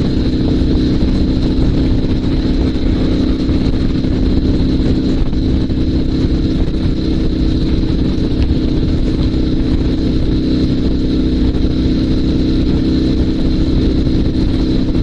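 Dnepr 16 sidecar motorcycle's flat-twin engine running steadily at an even pitch. It is running again after stalling from fuel starvation, with the fuel supply now flowing.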